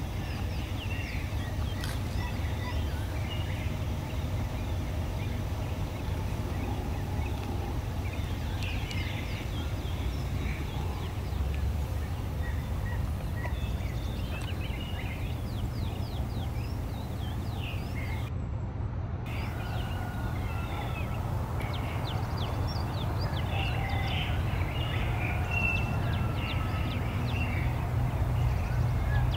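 Small birds chirping and whistling in scattered short calls over a steady low rumble.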